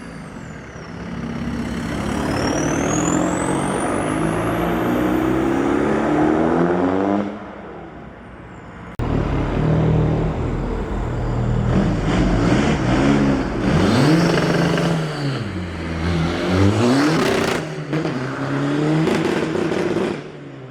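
Cars pulling away one after another. First a turbocharged diesel engine runs as it drives off, with a high whine rising in pitch for a few seconds. Then, after an abrupt change, a petrol car's engine is revved up and down several times.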